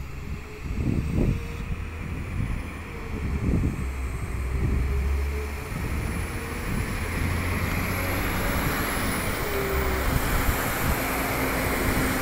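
Northern diesel multiple unit approaching and running into the platform, its engine hum and wheel rumble growing steadily louder as it comes closer.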